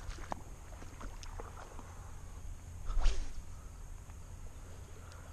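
Footsteps of someone walking along a river, with scattered light clicks and one louder thump about three seconds in, over a steady low rumble.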